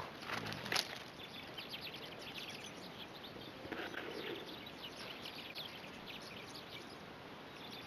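Small birds chirping again and again, in short high notes over a faint steady hiss of outdoor background noise.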